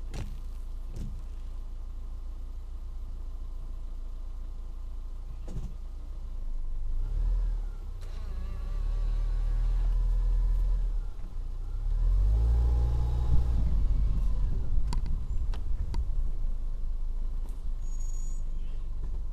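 Motor vehicle engine running and accelerating, its pitch rising and falling several times as it goes through the gears. There are a few sharp knocks in the first seconds.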